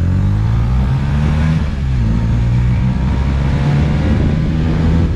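220 cc motorcycle with an aftermarket Akrapovic exhaust revving hard as it makes a flyby, the engine pitch climbing, dropping and climbing again several times. The exhaust is very loud.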